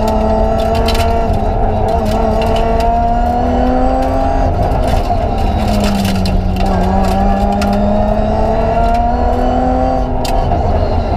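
BMW 325 Group A rally car's straight-six engine, heard from inside the cabin while driving at speed on a stage. Its pitch climbs slowly under acceleration, drops about four seconds in, then climbs again, with scattered sharp clicks.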